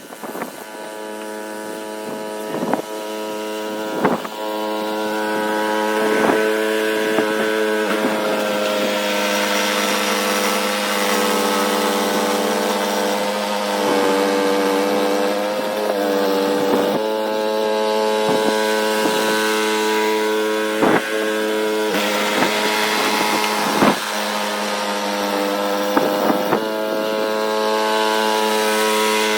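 A snowblower's small engine runs steadily, its pitch wavering a little partway through, with several sharp knocks scattered throughout.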